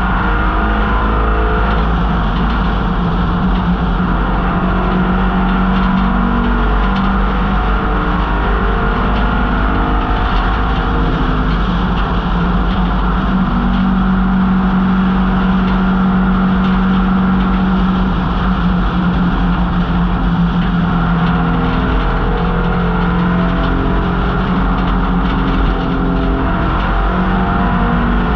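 1968 MGB GT's 1.8-litre four-cylinder engine running hard at racing speed. Its pitch climbs and drops again and again over a steady low rumble.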